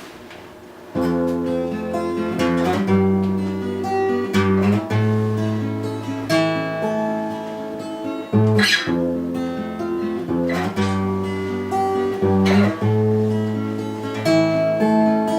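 Acoustic guitar strumming the chord intro to a bard song, coming in about a second in and moving through a slow sequence of chords.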